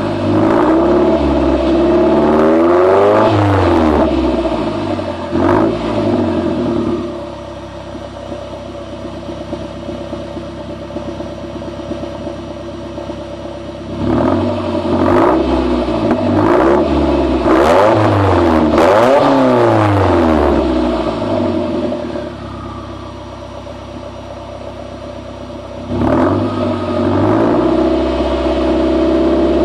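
Straight-piped 2009 Mazdaspeed3's turbocharged 2.3-litre four-cylinder being revved in clusters of quick blips, dropping back to idle between them twice, then revving up again near the end.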